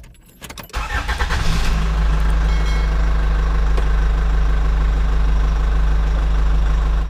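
An engine or motor starting up about a second in, building quickly and then running at a steady low pitch, until it cuts off abruptly.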